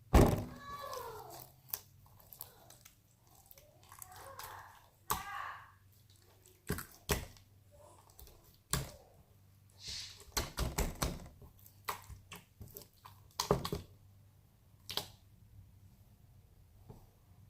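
Scattered clicks, taps and knocks of small objects being handled, coming irregularly and thickest around the middle, with a short falling squeak in the first second.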